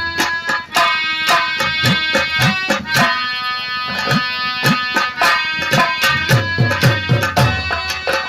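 An instrumental nautanki tune: a sustained harmonium melody over fast, dense hand-drumming, with deep drum strokes that bend in pitch.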